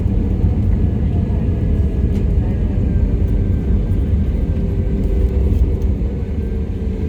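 Inside a regional airliner's cabin during landing: a loud, steady low rumble of the engines and airflow, with faint tones slowly falling in pitch.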